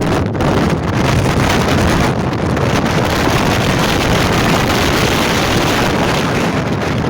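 Strong wind buffeting the microphone: a loud gust of dense, low-heavy wind noise that sets in sharply at the start and holds steady.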